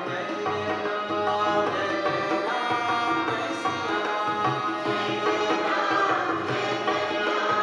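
Devotional bhajan music, with a tabla playing a steady rhythm under sustained melodic tones.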